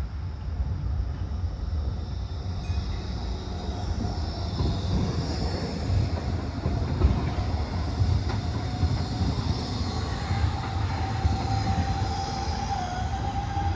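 A train running with a steady low rumble; a thin steady whine comes in about three seconds in and wavers near the end.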